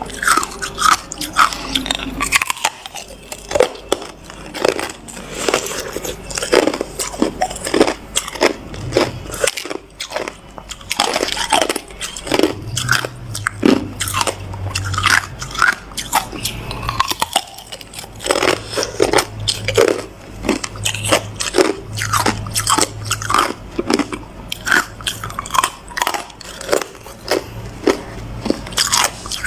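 Hard ice being bitten and chewed: a dense string of sharp crunches, several a second.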